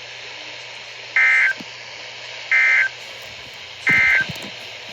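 NOAA Weather Radio SAME end-of-message code: three short, identical bursts of high two-tone data warble, about a second and a half apart, over steady radio hiss. They signal that the warning broadcast has ended.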